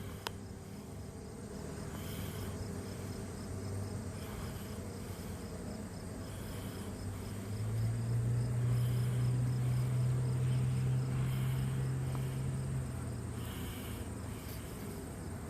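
Honeybees humming on the comb, a steady low drone that swells louder for several seconds starting about halfway through. Faint high chirps repeat about once a second behind it.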